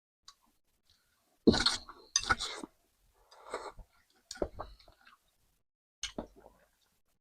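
Eating sounds over a bowl of noodles: utensils clinking against the bowl along with mouth noises of eating, in four short bursts with quiet gaps, loudest about a second and a half in.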